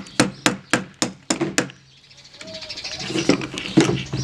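Rapid hammer blows driving a nail into the soft wood of a children's bird feeder kit, about three to four strikes a second, stopping about a second and a half in. Softer handling noise and a faint high sound follow.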